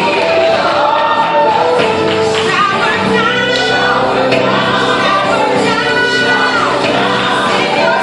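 Gospel music: a choir singing held, sustained lines over a full instrumental backing.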